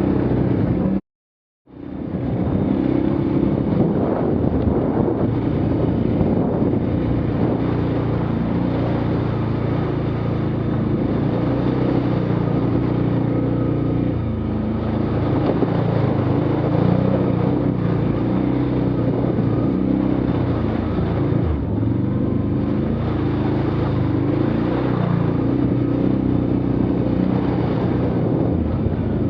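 Engine of an off-road motor vehicle running steadily while riding, with a rumble. The sound cuts out completely for about half a second about a second in.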